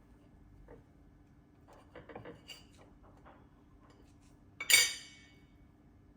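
Kitchenware being handled: a few light taps, then one loud, sharp clink of dishes or cutlery that rings briefly, a little before the end.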